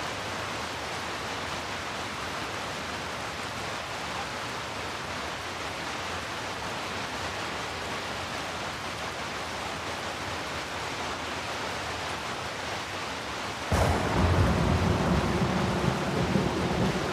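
Heavy rain falling steadily, an even hiss. About three-quarters of the way through, thunder breaks in suddenly, a loud deep rumble that keeps going.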